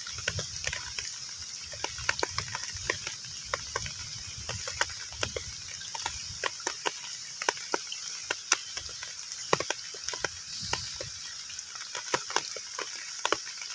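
Rain falling on a pond's surface: a steady hiss with many irregular, distinct plinks and splats of individual drops hitting the water, over a low rumble.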